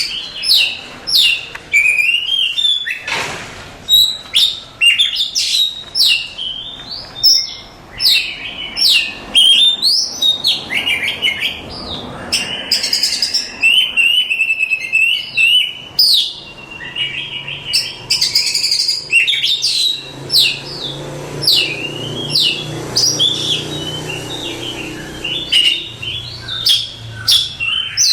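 Oriental magpie-robin (kacer) singing a fast, varied song of sharp whistled notes, sweeping up and down, with trills, kept up without a break.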